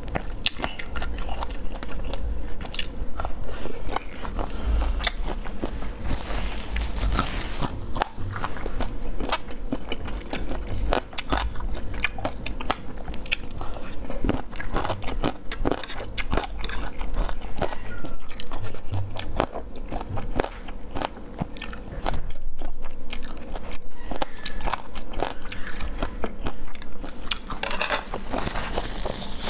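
Close-miked eating: crunchy bites and wet chewing of a spicy, saucy dish, with many sharp, irregular mouth clicks throughout. A brief rustle near the end.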